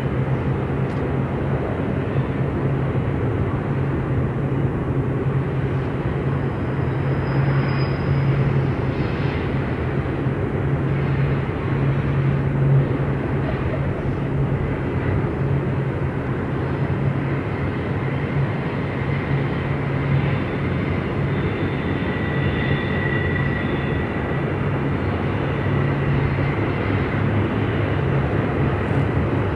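Freight train passing at track side: steady rolling noise of wheels on rail with a constant low hum throughout.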